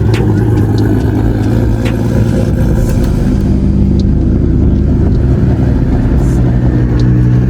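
Car engines running loudly: a low, steady drone whose pitch steps up and down a few times, with a few sharp clicks.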